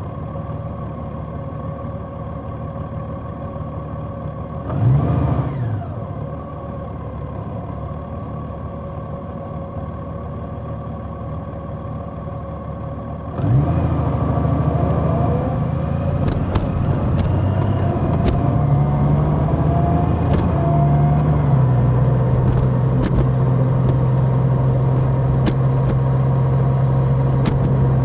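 Large motorcycle's engine running steadily, then about halfway through it suddenly gets louder and climbs in pitch as it accelerates, settling into a steady low drone with a few sharp clicks.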